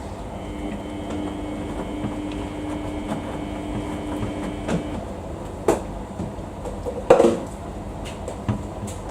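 Samsung washing machine running a wash cycle: a steady mechanical rumble of the turning drum, with a thin motor hum that stops about five seconds in. A few sharp knocks come through, the loudest about seven seconds in.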